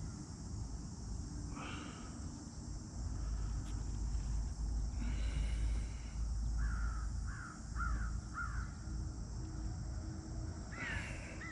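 Bird calling outdoors: a couple of single harsh calls, then a run of four short falling calls about half a second apart, over a steady high hiss.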